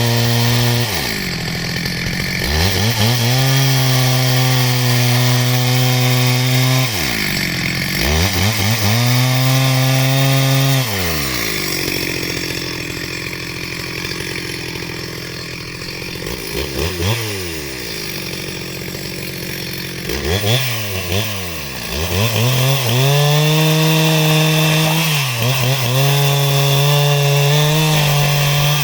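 Two-stroke chainsaw cutting timber into rafters, revving to full throttle in long bursts and dropping back toward idle between cuts. In the middle the engine runs lower with a few short quick revs, then goes back to a long full-throttle run near the end.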